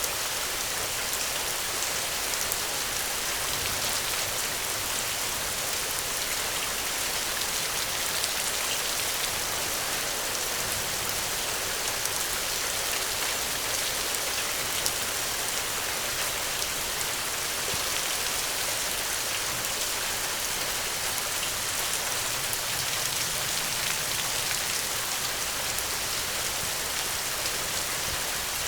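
Steady rainfall: a continuous even hiss of rain with the patter of fine drops striking a surface.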